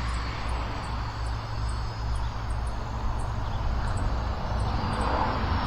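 Wind buffeting the microphone with a low rumble, over the distant buzz of the electric Turbo Timber Evo RC plane's propeller, which swells near the end. A faint high ticking repeats about three times a second.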